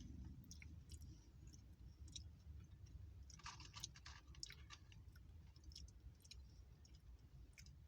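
A person chewing crunchy corn chips, faintly, with a close run of crunches about three and a half to four and a half seconds in and scattered small clicks around it.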